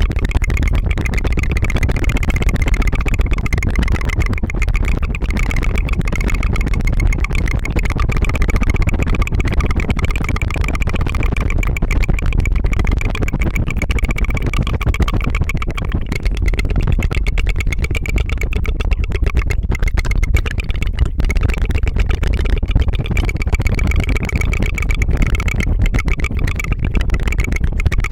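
Rapid tongue fluttering close to the microphone: a fast, unbroken putt-putt trill of the tongue, held steady without pause.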